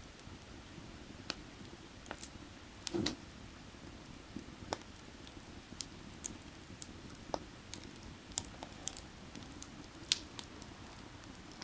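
Burning firewood crackling, with irregular sharp pops and snaps, a louder cluster about three seconds in, over a steady low rush of creek water.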